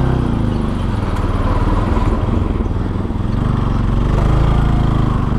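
Bajaj Pulsar NS200's single-cylinder engine running steadily at moderate revs, its pitch wavering slightly up and down.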